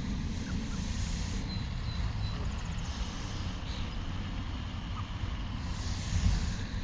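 Steady low rumble of outdoor background noise, with a few faint short high chirps and a louder low thump near the end.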